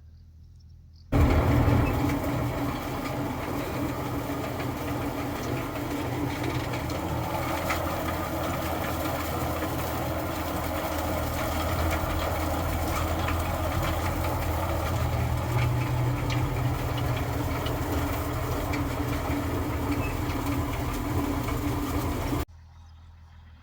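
Tractor engine running steadily, starting abruptly about a second in and cutting off abruptly near the end.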